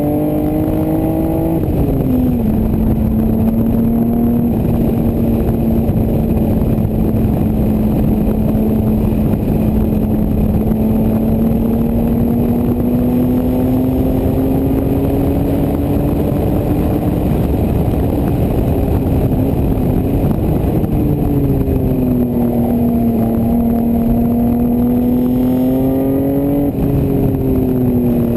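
A 1988 Toyota Supra's 7M-GE straight-six, with an aftermarket exhaust, running hard on track. Its pitch climbs and then drops sharply about a second and a half in. It then holds nearly steady, rises slowly, and falls away again twice later on, with a last rise and drop near the end. A steady rush of wind and road noise runs underneath.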